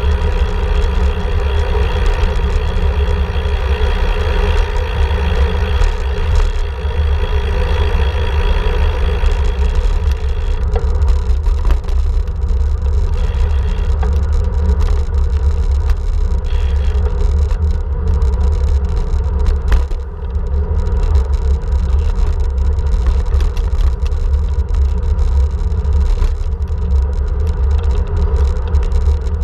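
Steady, loud rumble of a vehicle riding along a road, with deep buffeting noise that does not let up.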